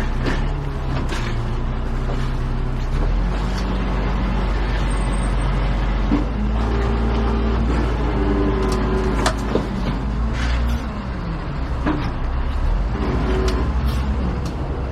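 Large truck engine running under way, its pitch rising and falling between about six and eleven seconds in, with scattered knocks and rattles.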